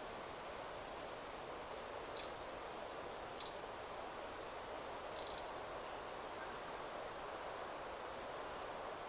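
Steady wind rustling through forest trees, with a small bird giving three short, high calls over a few seconds, then a brief faint high trill.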